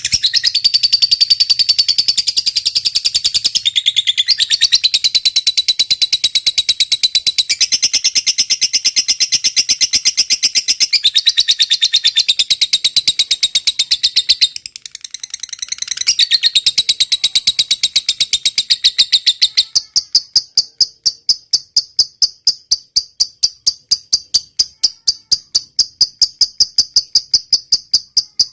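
Masteran recording of high chirping calls. First comes a fast, dense, high rattling trill that shifts pitch every few seconds and breaks off briefly about halfway. From about two-thirds of the way in it settles into steady insect chirping, about four chirps a second.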